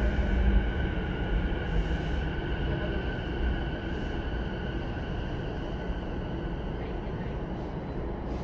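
Running noise inside a JR East E233-1000 series electric train's motor car: a steady rumble of the wheels on the rails with the whine of the Mitsubishi IGBT-VVVF traction equipment.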